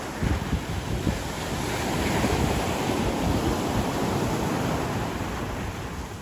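Ocean surf washing onto the beach, a steady rush that swells through the middle and eases near the end, with wind buffeting the microphone.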